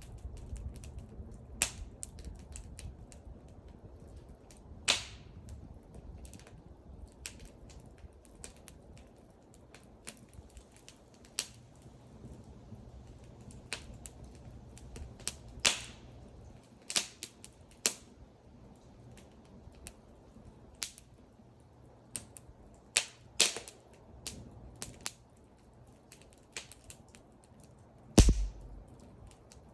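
Wood burning in a bonfire, crackling with irregular sharp pops at uneven intervals. The loudest pop comes near the end.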